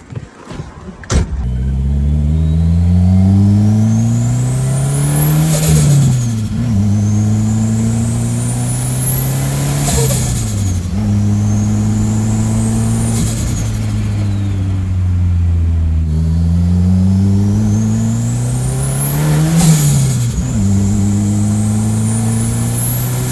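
Turbocharged Chevette with a VW AP 2.0 engine pulling under throttle, the turbo whine rising in pitch, then five lift-offs. At each lift-off the whine falls away and the turbo flutters as air backs up through the compressor.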